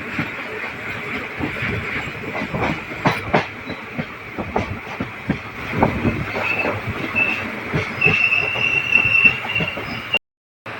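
Passenger train running on the rails, its wheels clattering over the track in irregular clicks. In the second half a thin, high wheel squeal comes and goes, and the sound cuts out abruptly near the end.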